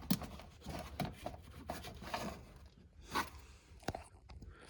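Hands pressing a rubber strut cap down onto the top of a car's strut until it locks in place: a series of short scrapes and clicks, about one a second.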